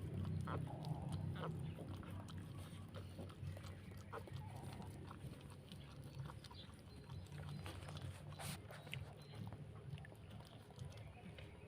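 Dog whelping: the mother dog makes low, drawn-out sounds that are loudest at the start and fade. Brief, faint high squeaks, as from a newborn puppy, are scattered through.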